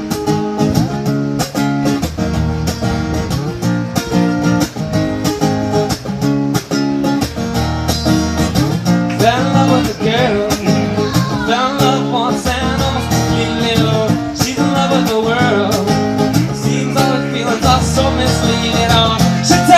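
Guitar-led song intro: rhythmic chords over a bass line, with a bending melody line joining about nine seconds in.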